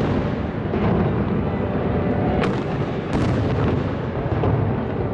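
Aerial fireworks shells bursting in quick succession: a continuous rolling rumble of booms, with sharper cracks standing out about one, two and a half, and three seconds in.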